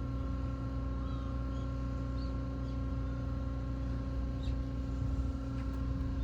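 Steady low hum of a running engine, with several constant tones held over it and a few faint high chirps.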